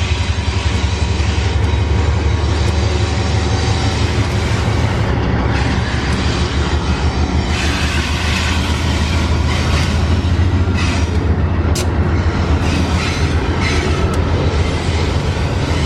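Train rolling past: a steady, loud low rumble of the locomotive and wagons on the rails, with metallic wheel squeal and rattling in the middle stretch and a sharp clank near the end.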